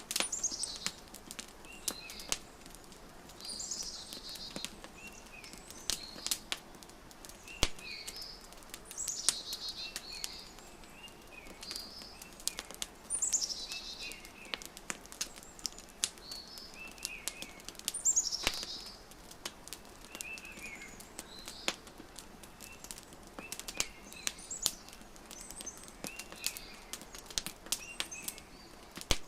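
Wood fire crackling with frequent sharp pops, while birds sing: short chirps and, every few seconds, a high phrase that falls in pitch.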